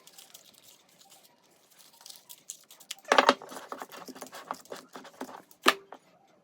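Butter being spread over a baking tray: quick light scraping and tapping, with louder knocks about three seconds in and again near the end.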